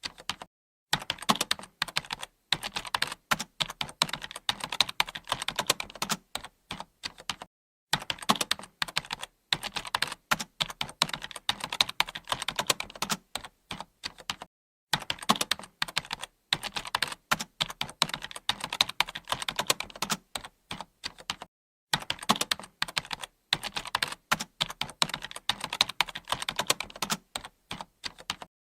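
Typing on a computer keyboard: rapid, continuous keystrokes in stretches of about seven seconds, each broken by a brief silent pause.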